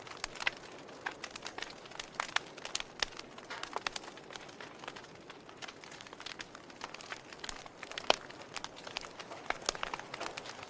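Fire crackling, with irregular sharp pops and snaps over a soft steady hiss.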